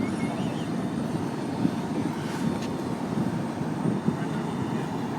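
Heavy truck engine running steadily, a continuous low rumble.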